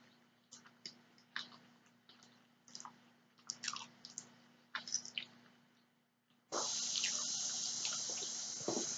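Close-up chewing and wet mouth clicks from someone eating, coming in short separate smacks. About six and a half seconds in, a steady hiss starts abruptly and continues.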